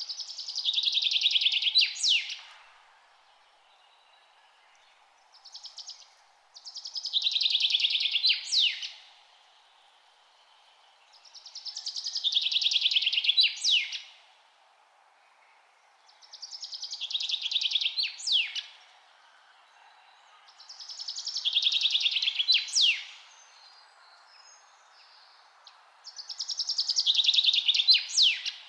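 A songbird singing the same song over and over, about every five seconds. Each song is a rapid high trill of about two seconds that ends in a few sharp notes. A faint steady background hiss lies underneath.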